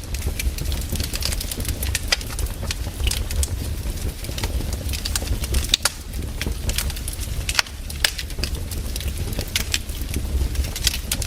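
Wood fire crackling, with irregular sharp pops over a steady low rumble of the burning logs.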